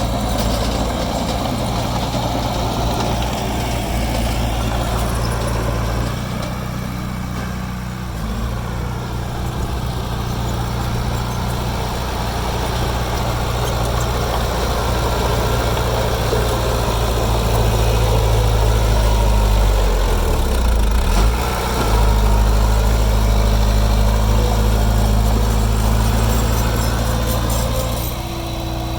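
Heavy construction-machine diesel engine running steadily. Its note drops and changes around six seconds in, and dips briefly again about twenty seconds in as the load changes.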